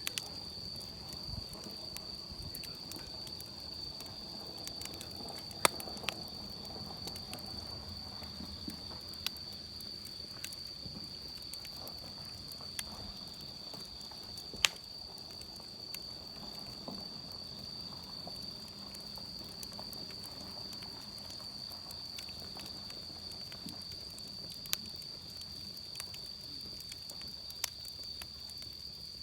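Wood campfire crackling with scattered sharp pops, the loudest about six, fifteen and twenty-five seconds in, over the steady high-pitched trill of insects.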